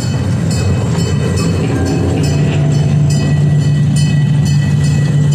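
Tourist train running along the track, heard from on board: a steady rumble with light clicks about twice a second, and a steady low drone that joins about two seconds in.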